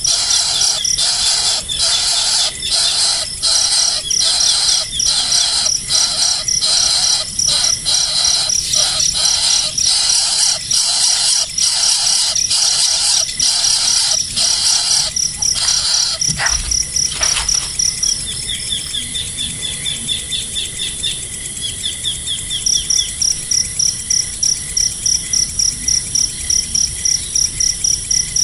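Bird calls repeated evenly, about twice a second, for most of the first half. They stop about two-thirds through, leaving a thin high trill. Near the end, a fast, even, high-pitched chirping like a cricket takes over.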